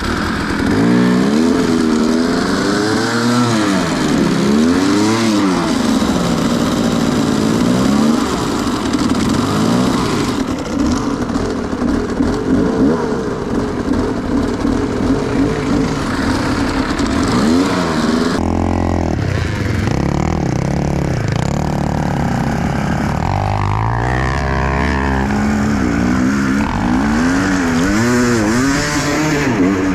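Enduro motorcycle engine revving up and down over and over while the rider tries to get the bike up a hill. There is a lower, steadier stretch about two-thirds of the way through.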